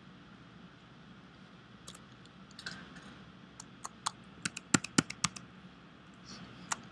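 Computer keyboard typing: a scattered run of sharp key clicks, quickening and loudest about four to five seconds in, with a last click near the end, over a faint steady hiss.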